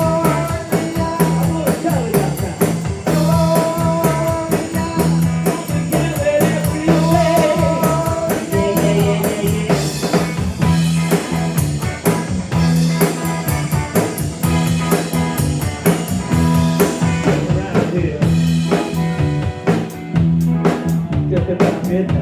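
A live rock band playing with drums, bass and electric guitar, a repeating bass figure running under steady drum beats.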